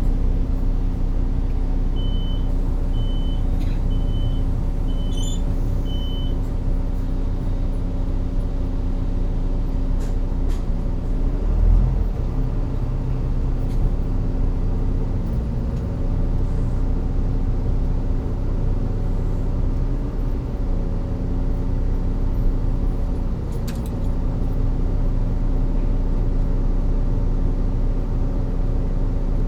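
Volvo D9B diesel engine of a Volvo B9TL double-decker bus running steadily with a low drone, heard on board, its pitch dipping slightly a few times. Five short high beeps about a second apart sound in the first few seconds, and there is a single thump about twelve seconds in.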